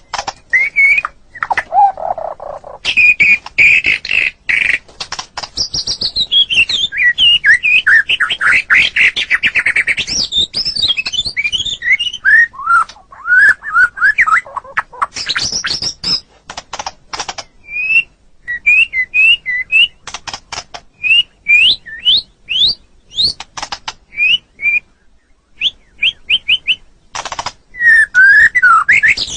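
White-rumped shama (murai batu) singing a long, varied song. It runs through loud whistled phrases, fast trills, rising and falling slurs and sharp clicking chips. It is densest in the first half, then breaks into short upswept whistles with brief pauses.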